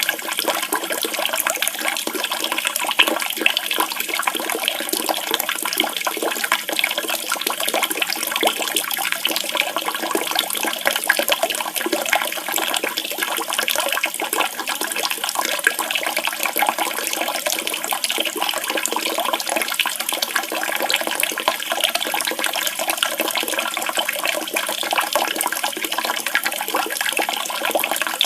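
Running water splashing and gurgling in a steady, continuous rush.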